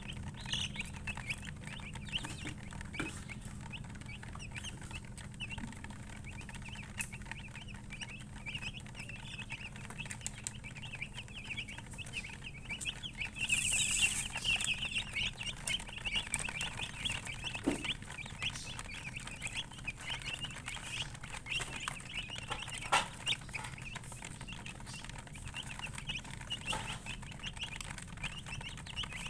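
A group of chicks peeping continuously in short, high chirps, busiest and loudest about halfway through, over a steady low hum.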